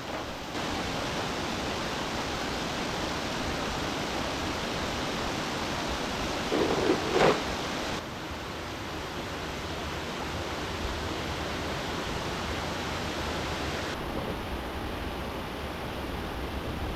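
Steady rush of flowing river water. The level steps abruptly a few times, and there is one short, louder knock about seven seconds in.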